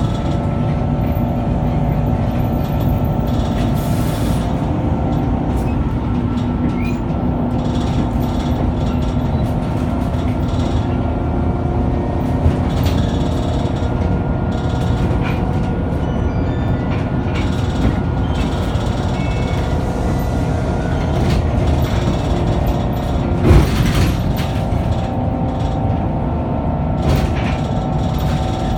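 Scania K94UB tri-axle double-decker bus running: a steady low engine and drivetrain drone with several whining tones over it, and a single sharp knock about 23 seconds in.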